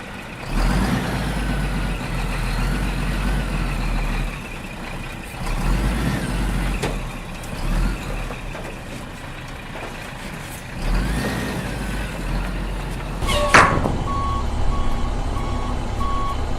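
Heavy vehicle engine sound, a low rumble surging up and down several times with a rising and falling whine. About 13.5 seconds in comes a sharp hiss like an air brake, followed by a reversing beeper beeping at an even pace.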